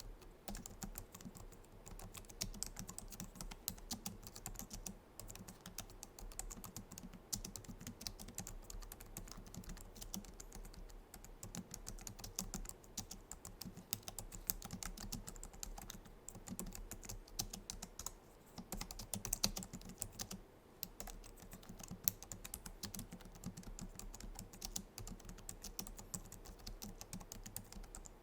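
Continuous fast typing on a Logitech MX Keys keyboard, a dense run of soft, low-profile scissor-switch key clicks with a couple of brief pauses.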